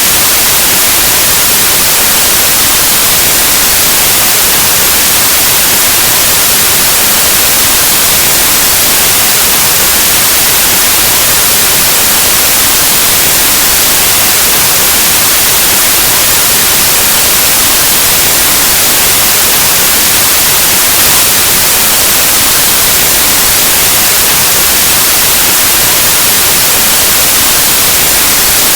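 Steady, loud white noise: an even static hiss across the whole range, like an untuned analog TV or radio.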